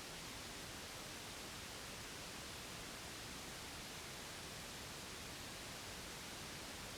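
Steady, unchanging white noise, an even hiss strongest in the upper range, of the kind played to lull a baby to sleep.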